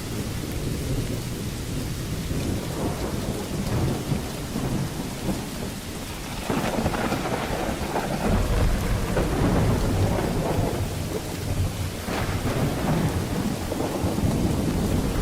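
Steady heavy rain with rolling thunder, the low rumble building louder about halfway through and surging again near the end.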